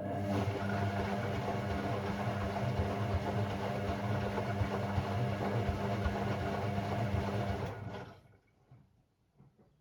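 Hoover Sportswear 1300 AI130 washing machine running with a steady hum for about eight seconds, then stopping suddenly: one burst of machine action on its Delicate 15 programme.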